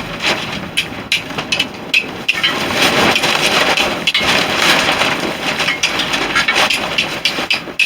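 Steel striker struck repeatedly down a flint, a rapid irregular series of sharp scraping clicks, throwing sparks onto char material in a tin. Strong wind rushes and flaps a tarp throughout.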